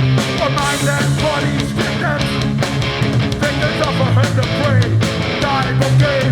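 Live hardcore punk band playing at full volume: distorted electric guitars, bass and drums, with the drums hitting in a steady fast rhythm and the guitars bending notes.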